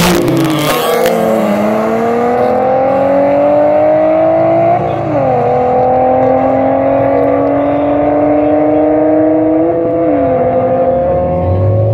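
Two street cars, an Infiniti coupe and a Honda Civic, launching side by side in a drag race and accelerating away hard, with a brief loud rush at the launch. Their engines climb in pitch through the gears, with an upshift about five seconds in and another near ten seconds.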